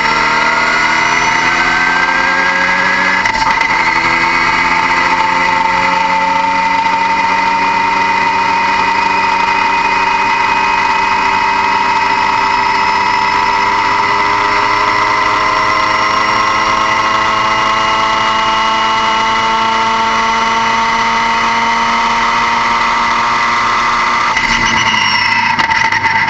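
Car engine running under load, its pitch dipping about three seconds in, then rising slowly and steadily for some twenty seconds before dropping again near the end, with a steady high whine over it.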